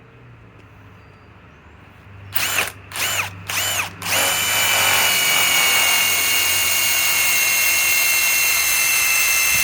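Ryobi PSBIW25 compact cordless impact wrench driving a large lag screw into wood. About two seconds in, three short trigger pulls spin the motor up and down. It then runs continuously under load with a steady high-pitched whine.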